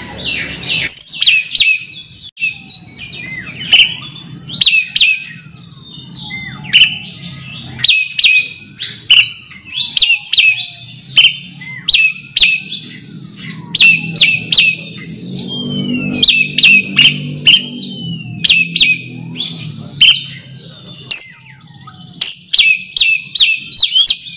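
Oriental magpie-robin (kacer) singing a rapid, continuous run of sharp, high chattering notes mixed with slower falling whistles: the song used to call out and challenge a rival.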